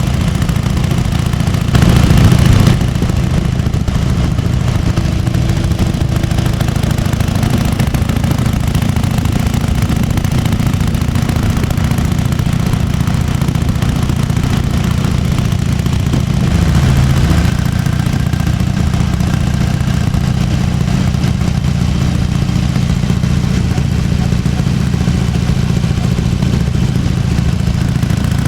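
1998 Harley-Davidson Fat Boy's 1340 cc Evolution V-twin idling with its potato-potato beat, blipped louder briefly about two seconds in and given a small rev again about seventeen seconds in.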